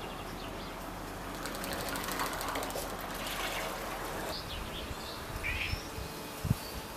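Outdoor background noise with a few faint bird chirps about four to six seconds in.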